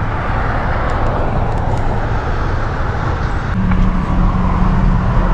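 Steady rush of wind and road or traffic noise around an electric motorcycle, with a steady low hum joining about three and a half seconds in.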